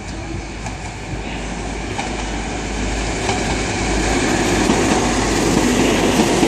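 InterCity 125 High Speed Train led by a Class 43 diesel power car pulling into the platform. The power car's engine and the wheels of the coaches on the rails grow steadily louder as the train draws alongside.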